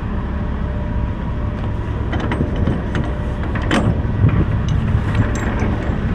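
Semi truck's diesel engine idling steadily, with a few scattered clicks and knocks over the rumble.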